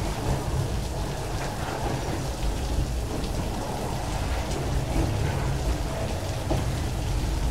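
Heavy rain falling, mixed with the steady low rumble of loaded freight wagons rolling past on the rails.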